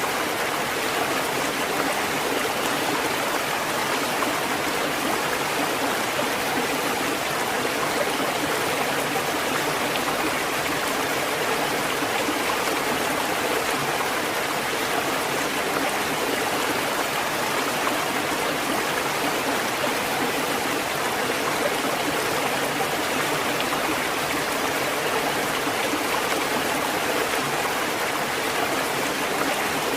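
Steady rushing water, an even hiss that holds the same level throughout with no rise and fall of separate waves.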